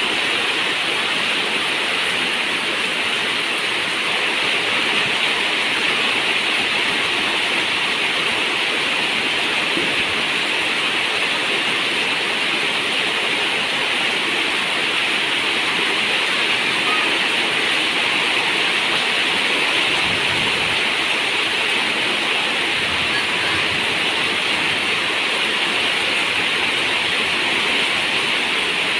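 Steady rain on a zinc roof: a continuous, even hiss of water.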